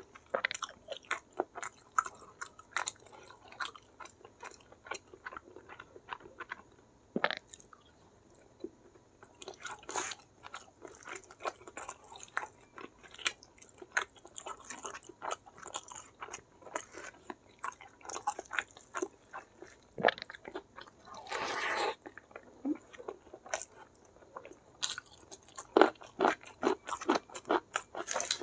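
Close-miked chewing of hand-eaten rice and semur jengkol (stewed jengkol beans): a steady run of short wet clicks and crunches from the mouth, with a longer noisy chewing stretch about three quarters of the way through.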